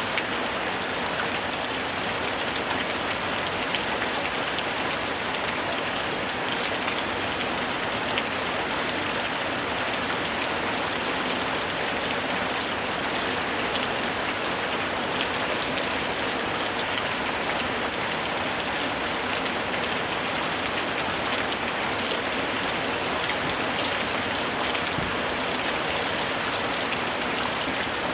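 Heavy rain drumming steadily on a tin roof, a dense unbroken patter of drops on sheet metal.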